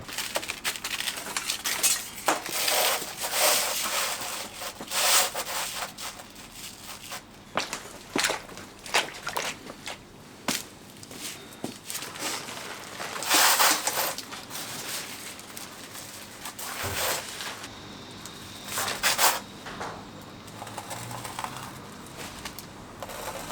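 Roofing felt being handled: irregular rustling, scraping and crackling, with several louder rasps.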